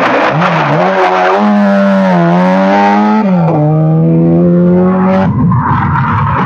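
Rally car engine revving hard, its pitch climbing and then dropping sharply about three seconds in, as at a gear change or a lift off the throttle. The note then holds steady and gives way to a rushing noise near the end.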